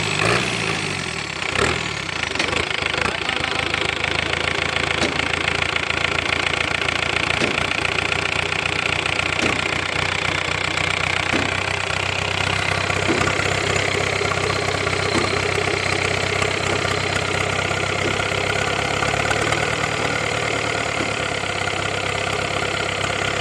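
Tata 407 light truck's engine idling steadily.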